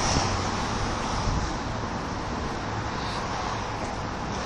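Steady outdoor vehicle noise with wind buffeting the microphone.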